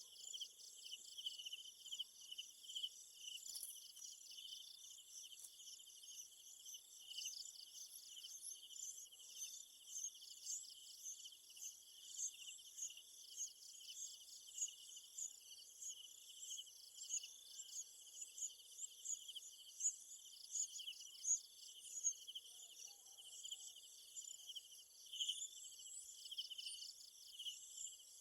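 A faint, steady insect chorus: many insects trilling in a rapid, continuous high-pitched pulse.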